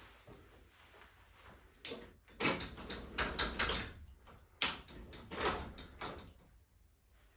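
A run of about five scraping and clunking noises from hands-on work on garage door torsion spring hardware.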